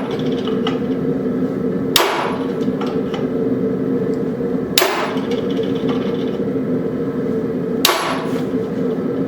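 A hammer strikes a steel marking tool into a railroad spike three times, about three seconds apart, each a sharp ringing hit, with a few lighter taps between them. These are the reference marks for a decorative face. A steady mechanical hum runs underneath.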